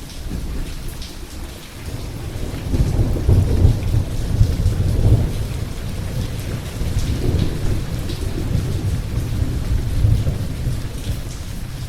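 Steady rain falling with rolling thunder. The low rumble swells about three seconds in and again near the ten-second mark.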